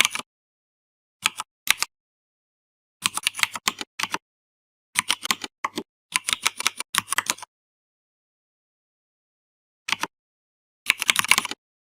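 Computer keyboard typing: quick runs of key clicks in short bursts, a pair of single taps early, a long run in the middle and another short run near the end, with completely silent pauses between.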